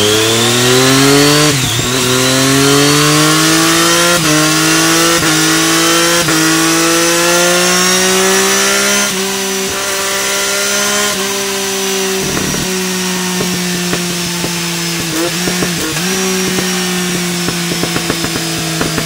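Triumph Daytona 675's three-cylinder engine with an Arrow slip-on exhaust under a power-check run, the revs climbing steadily for about nine seconds and then holding high, with a few brief cuts and some crackling from the exhaust near the end.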